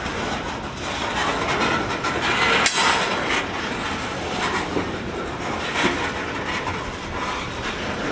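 Covered hopper cars of a freight train rolling past close by: steady rumble and clatter of steel wheels on the rails, with a sharp clank about two and a half seconds in.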